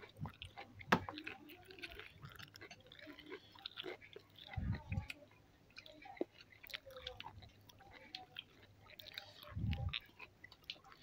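Close-up eating sounds at a shellfish meal: chewing, with many small clicks of shells and a pink plastic stick against a plastic bowl. Two dull thumps come about five seconds in and near the end.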